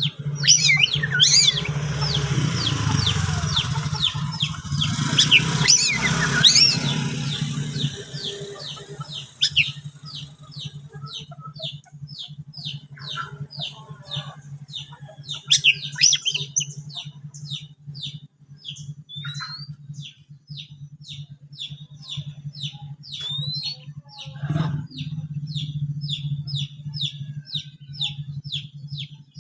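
Oriental magpie-robin calling in a challenge to a rival: loud, varied notes for the first several seconds over a rushing noise, then a long run of short, quick repeated chirps, about three a second. A steady low hum runs underneath.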